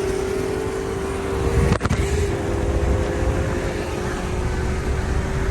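A car driving hard at speed: the engine drones with a steady whine that slowly rises in pitch over heavy road and wind noise. A sharp knock comes just under two seconds in.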